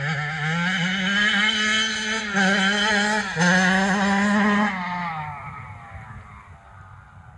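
Kawasaki KX85 two-stroke single-cylinder dirt bike engine revving up and held at high revs, with two brief dips in pitch a little after two and three seconds in, then easing off about five seconds in and fading away.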